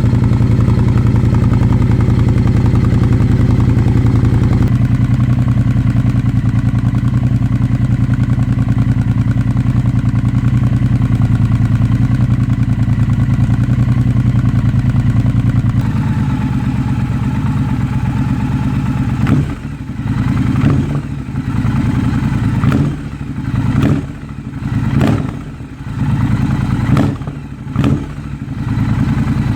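2022 Triumph Bobber's parallel-twin engine running through a Delkevic exhaust with the baffle fitted, idling steadily just after starting, the idle note settling about five seconds in. In the last ten seconds the throttle is blipped several times, the exhaust note surging and dropping with each blip.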